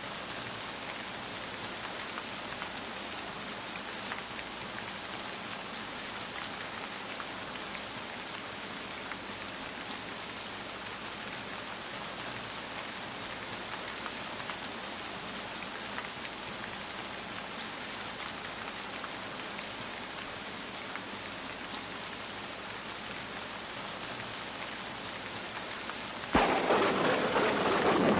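Steady rain falling, an even hiss of drops. Near the end a loud peal of thunder starts suddenly and rolls on over the rain.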